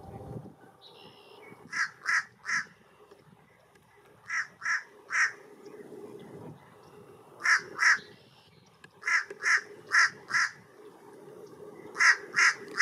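Fish crow calling: short caws in quick runs of two to four, five runs in all a couple of seconds apart.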